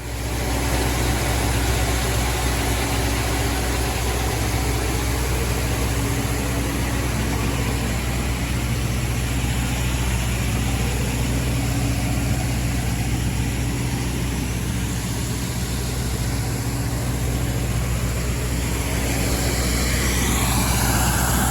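An engine running steadily at a low, even speed. Near the end a higher whine glides up and down over it.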